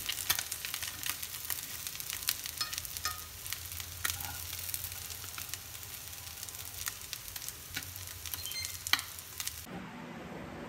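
Small goby fish with betel leaves and garlic sizzling in hot oil in a frying pan, with many sharp crackles and pops of spitting oil as they are stirred with chopsticks; the fish are already crisp. The sizzle cuts off suddenly near the end.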